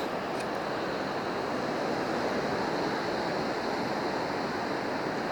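Steady wash of surf breaking on a beach, swelling slightly midway.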